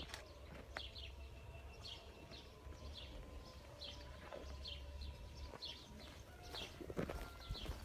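A songbird chirping repeatedly outdoors: short, high, downward-sliding notes about once or twice a second, over a low rumble. A few soft knocks come near the end.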